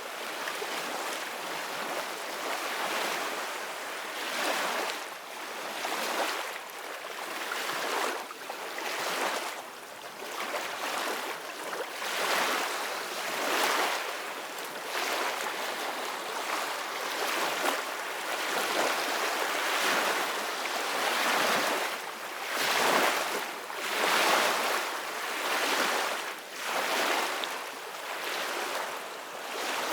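Ocean waves breaking on a shore, a continuous hiss of surf that swells and recedes with each wave every couple of seconds.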